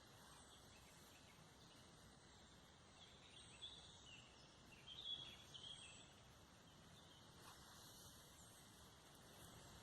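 Near silence: faint forest ambience with a few distant bird calls, a short run of chirps about halfway through and a few more near the end.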